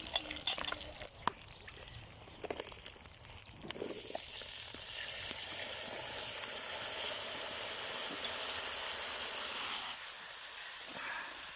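A few light clicks and knocks, then about four seconds in a steady loud sizzling starts: food frying in hot oil in a cast-iron kazan.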